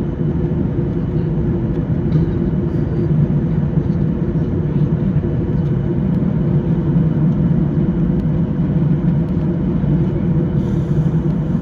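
Steady jet engine and airflow noise heard inside the cabin of a Boeing 737-800 on approach, a constant low rumble with no changes or thumps.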